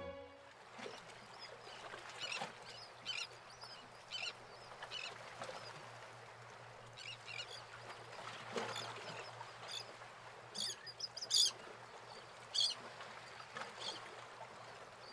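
Birds calling: many short, high calls scattered irregularly, faint, over a steady low background of outdoor noise.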